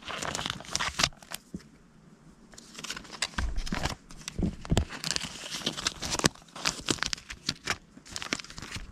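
Paper task cards being handled and laid out: irregular rustling and crinkling with many light clicks and taps, and two dull bumps about midway through.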